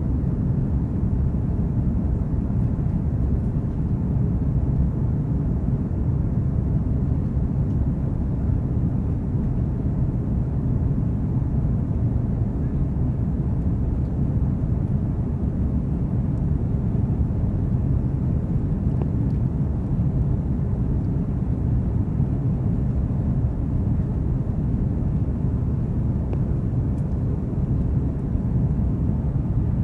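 Steady low rumble of an Airbus A330-300 airliner, its Rolls-Royce Trent 700 engines and airflow heard from inside the passenger cabin, even and unchanging throughout.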